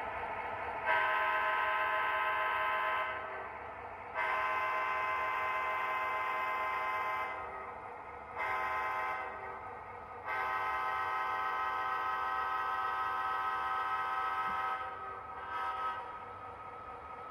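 Model diesel locomotive's Protosound 3 sound system blowing a multi-chime air horn: four blasts, long, long, short, long, the grade-crossing signal.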